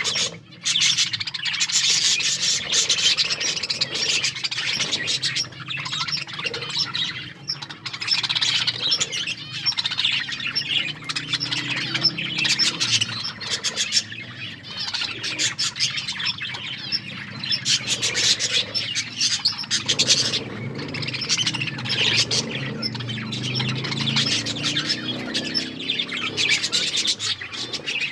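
Budgerigars chattering and chirping continuously, with squawks mixed in.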